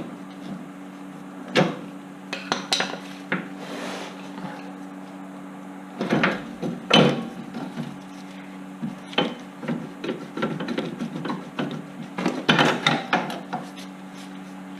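Irregular metallic clanks, knocks and scrapes of hand tools and car suspension parts being handled, loudest twice, about six and twelve seconds in, over a steady low hum.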